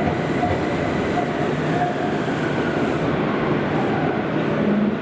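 Kobe City Subway 5000-series linear-motor train running through a tunnel, heard from inside the car: a steady rumble of wheels on rail with running noise and faint whining tones.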